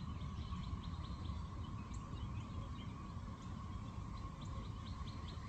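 Background noise with a low rumble and a faint steady hum, over which a small bird chirps in short high notes, about four a second, near the start and again near the end.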